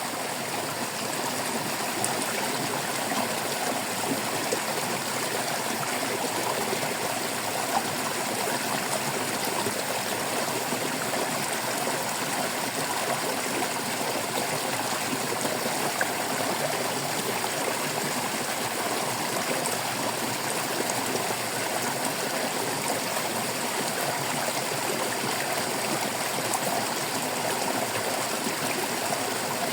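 Water of a small stream running and trickling over rocks, a steady babbling with small splashes and gurgles throughout.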